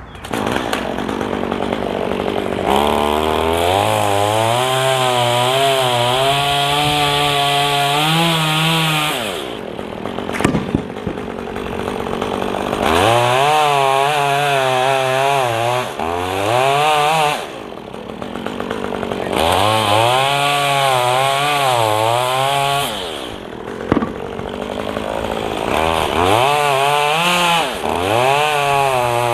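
Gas chainsaw cutting wood, its engine revving high and wavering in pitch under load. It drops back three times between cuts and revs up again each time.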